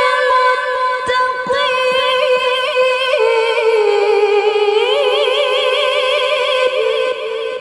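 Woman's voice in Quran recitation (tilawah), holding a long, high melismatic line with wavering ornaments. The line steps down in pitch about three seconds in and ends shortly before the close.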